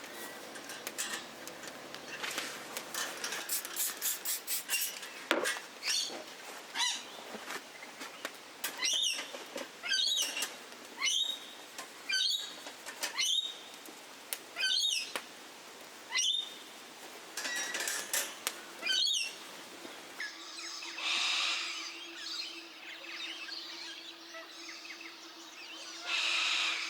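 A bird calling repeatedly: a run of short sweeping calls, a little under one a second. A low steady hum joins about two-thirds of the way through.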